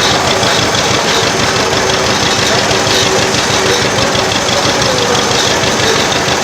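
Old tractor engine running steadily at close range, with a fast, even firing beat.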